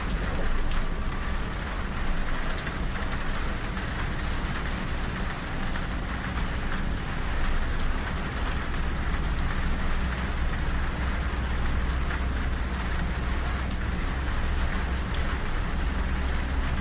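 Steady rain with scattered drop ticks over a continuous low rumble from a moving train.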